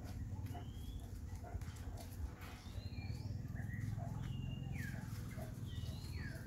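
Birds chirping: short whistled notes that glide up and down, one every second or so, over a steady low rumble.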